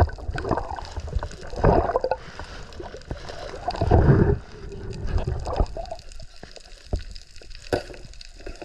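Water gurgling and sloshing around the diver's camera in the sea, with two louder rushes of water about two and four seconds in.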